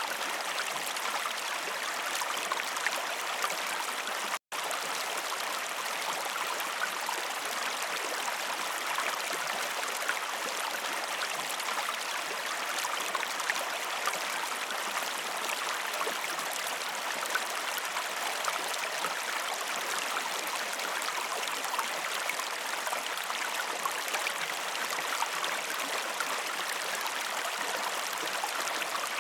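Waterfall: a steady, even rush of falling water with no other sounds. It cuts out completely for an instant about four and a half seconds in, then resumes unchanged.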